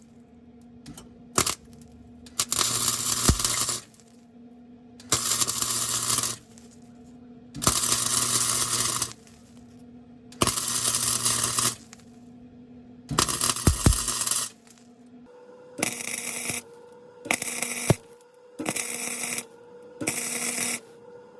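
Electric welding arc crackling in repeated short bursts, each about a second long with brief pauses between, on a car exhaust pipe; the bursts grow shorter and quicker over the last few seconds. A steady low hum runs underneath.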